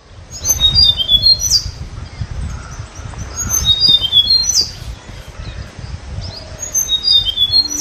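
A bird singing: a phrase of short, high chirps with an upswept whistle, repeated about every three seconds, over a low background rumble.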